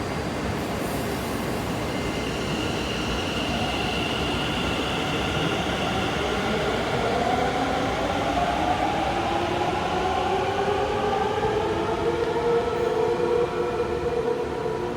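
Taoyuan Airport MRT commuter electric train pulling away, the rumble of its wheels on the track joined by the whine of its traction motors climbing in pitch as it accelerates, several rising tones at once.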